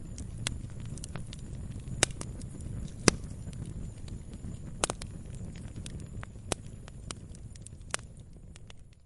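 Log fire burning, with a low steady rumble under irregular sharp crackles and pops; the loudest pops come about 2, 3 and 5 seconds in. The sound starts fading out right at the end.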